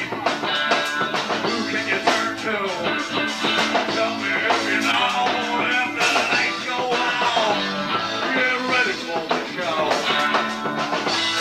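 Live rock band playing, with electric guitar, bass guitar and a drum kit keeping a steady beat.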